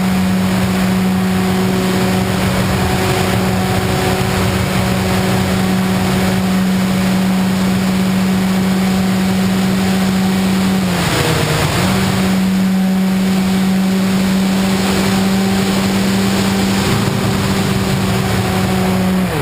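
Motor and propeller of an FPV model plane running at a steady pitch in flight, with rushing wind noise. About eleven seconds in, the pitch dips briefly as the throttle eases, then comes back.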